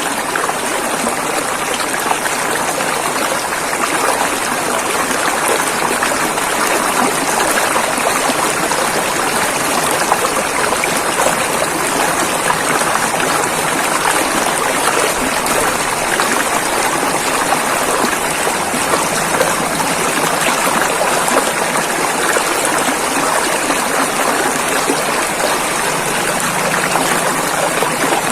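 River water flowing and rushing over rocks, a steady splashing flow with no let-up.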